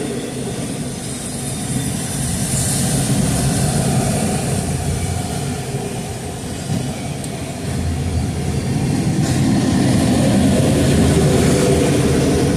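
Freight train cars rolling past at close range: a continuous rumble of steel wheels on the rails, growing louder about eight seconds in.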